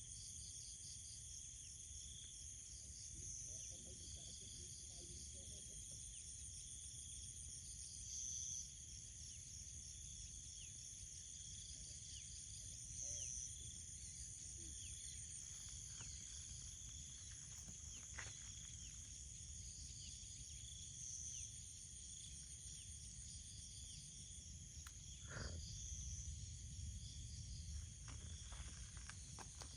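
Insects chirring in several steady, overlapping high-pitched trills, faint, over a low rumble.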